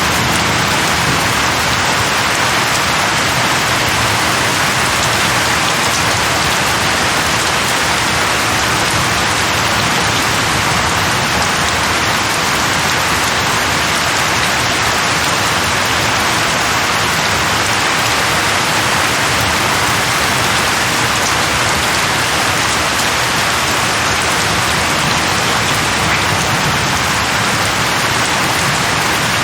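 Steady heavy rain falling on a surface, an even hiss without breaks or distinct drops.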